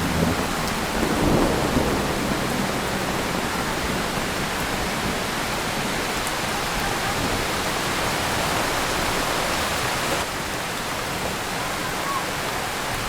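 Heavy rain pouring steadily, with a short low rumble of thunder about a second in.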